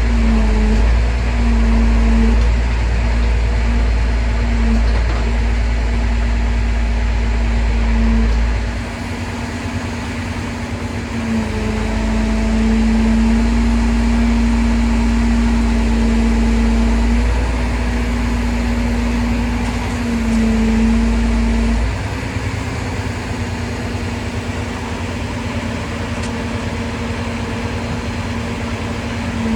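A truck-mounted crane's engine and hydraulics running steadily, a deep rumble with a steady whine over it. Its load and level shift a few times, dropping about a third of the way in, picking up again, then easing off for the last part.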